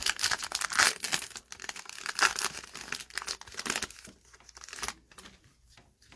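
Foil wrapper of a trading-card pack crinkling and tearing as it is handled, in dense crackles that die down near the end.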